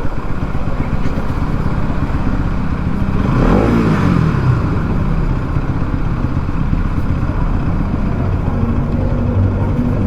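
Bajaj Pulsar NS200's single-cylinder engine running steadily under way, with wind and road rush. About three to four seconds in, a passing vehicle swells louder and drops in pitch as it goes by.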